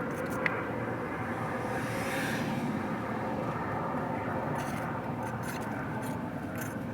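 A motor running steadily, with a few light clicks over it.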